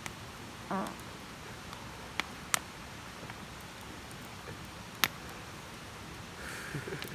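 Wood campfire burning with a steady soft hiss and crackle, broken by a few sharp pops, the loudest about five seconds in.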